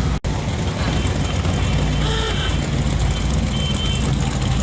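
Steady low engine drone with a brief drop-out just after the start.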